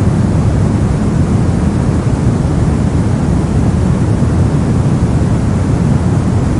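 Brown noise: a steady, unchanging rushing hiss, deep and warm, with most of its weight in the low end.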